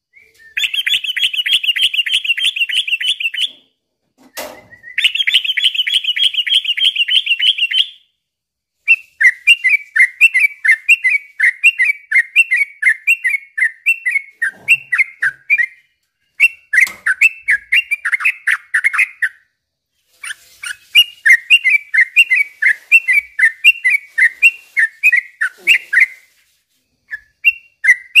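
Yellow-vented bulbul singing loudly. It gives two long, rapid trills in the first few seconds, then repeated runs of quick, bubbly up-and-down notes broken by short pauses.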